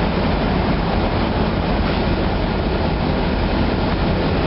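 Steady, loud diesel engine noise filling a ship's engine room, with a heavy low hum and no change in speed.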